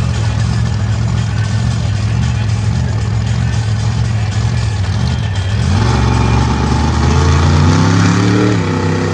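Monster truck engine running loud and steady, then revving up with a rising pitch about halfway through and easing off near the end.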